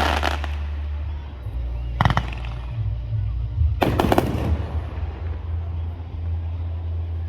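Fireworks going off: a burst fading away at the start, a single sharp bang about two seconds in, then a second bang with a short crackle near the middle. A steady low rumble runs underneath.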